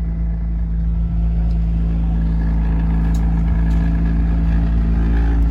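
Boat motor running steadily under way, a constant engine hum.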